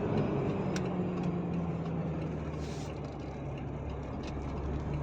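Truck engine running steadily while the lorry drives slowly, a low even hum with road and cab noise and a couple of faint clicks.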